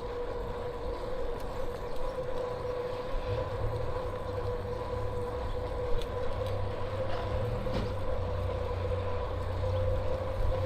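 Riding noise on a moving bicycle: low rumble of tyres and wind on the microphone, growing heavier a few seconds in, under a steady high whine that holds one pitch.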